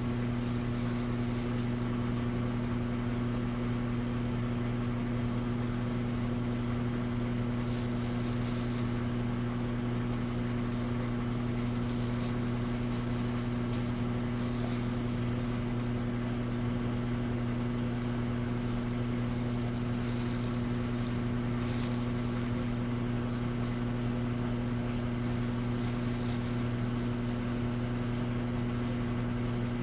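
Electrolux Essential Care 11 kg washing machine running with a steady motor hum.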